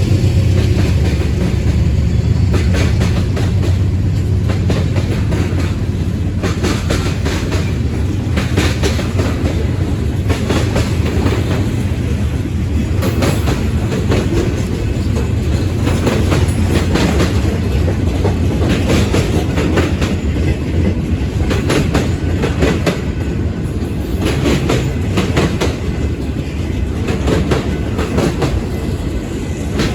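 Freight cars of a mixed freight train rolling past, their wheels clicking over rail joints in a steady clickety-clack, with a loud rumble underneath. A low diesel locomotive hum fades out over the first few seconds.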